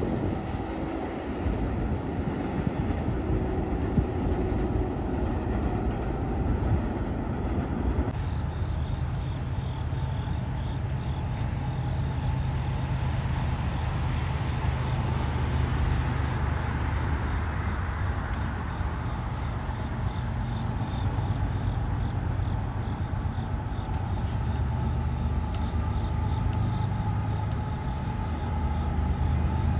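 A train running past: a steady low engine drone with rolling noise, swelling and fading again about halfway through. The sound changes abruptly about eight seconds in.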